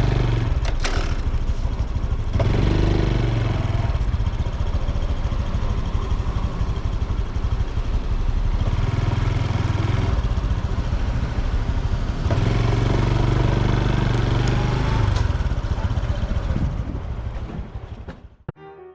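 Honda Super Cub C125's single-cylinder four-stroke engine and exhaust while riding, revving up and easing off several times, with road and wind noise. It fades out near the end.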